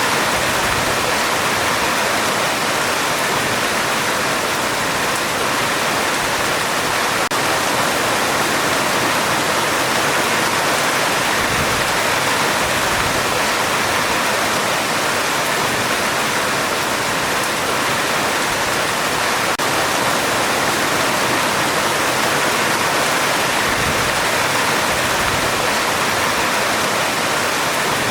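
Heavy rain drumming steadily on a metal roof, a dense, even hiss with no thunder.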